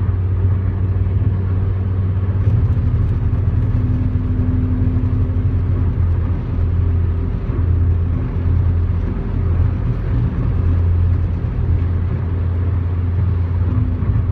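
Steady low road and engine rumble inside a car's cabin while driving at freeway speed.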